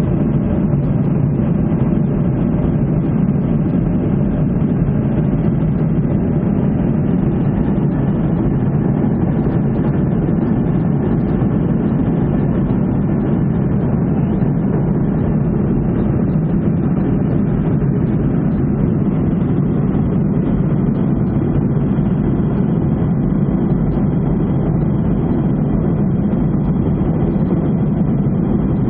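Cabin noise of a Ryanair Boeing 737 airliner in flight: the jet engines and rushing air make a steady, even low drone with no change in pitch or level.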